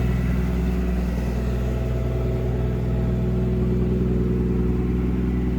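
Toyota 1JZ turbocharged inline-six in a swapped Mazda Miata idling steadily through a MagnaFlow exhaust, not yet tuned.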